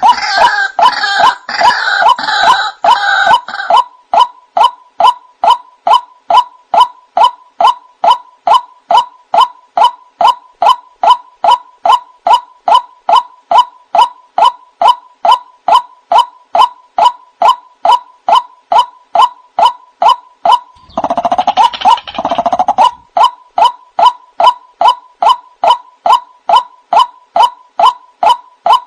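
White-breasted waterhen (ruak-ruak) calling: a monotonous kwak note repeated evenly, about two and a half times a second. Louder, harsher croaking calls lie over it at the start and again about 21 seconds in.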